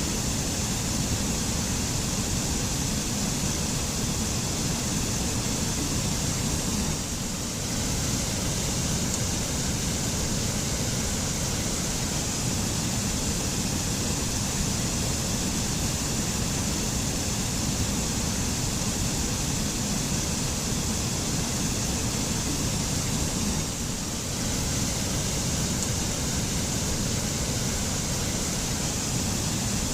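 Mountain waterfall in a forest, water pouring steadily with an even rushing sound.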